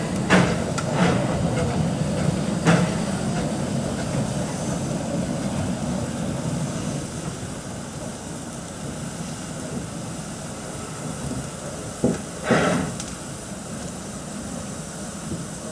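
Vale of Rheidol narrow-gauge steam train running, its rumble slowly dying away, with a few sharp knocks early on. Two short, loud bursts of noise come about twelve seconds in.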